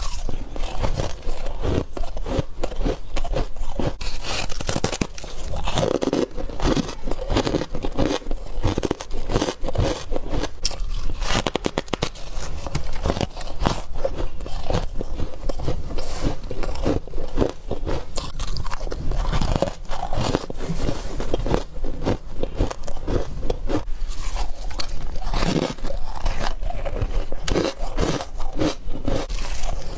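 A person biting and chewing freezer frost, with one crunchy bite after another.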